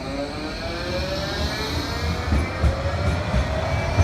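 Bombardier Flexity 2 tram pulling away from a stop, its traction motors whining in several tones that rise in pitch as it accelerates, over a low rumble.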